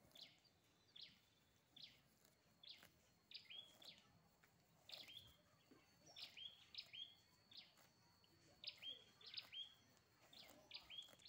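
A small bird calling: short high chirps, each dropping quickly in pitch, repeated about one or two a second and often in quick pairs, over a faint steady high tone.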